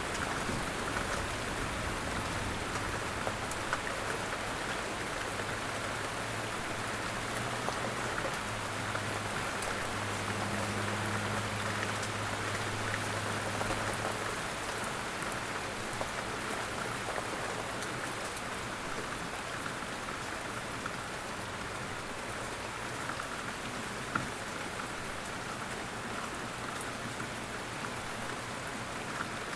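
Steady rain falling, a dense even patter of drops. A low hum sits under it, strongest in the first half.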